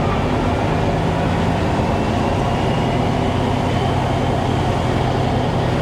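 Truck engine running steadily: an even low drone with a constant hum, under broad road and cab noise.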